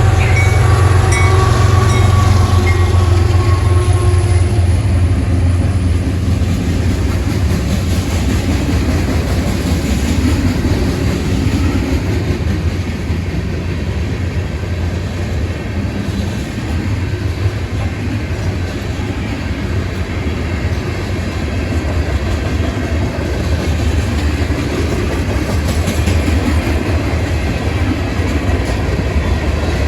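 Union Pacific freight train rolling past, its cars' wheels clattering over the rails in a steady run. A pitched tone and a heavier low rumble at the start fade away over the first few seconds.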